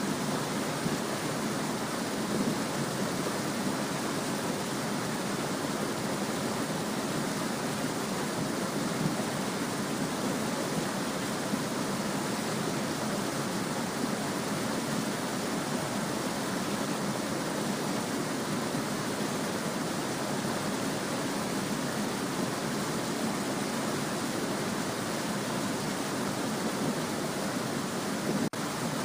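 A small stream babbling steadily, an even rush of flowing water.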